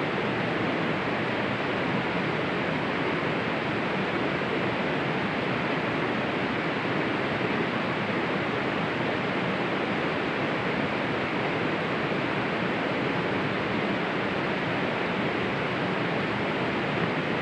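Steady, even rushing noise of rain and wind, unchanging throughout.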